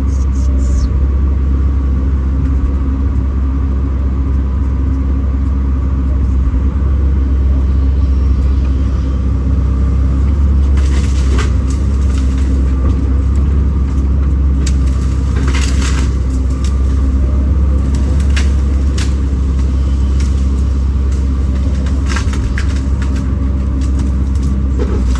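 Kobelco SK210 excavator's diesel engine running steadily with a deep low hum, with a few short sharp cracks and clicks at intervals.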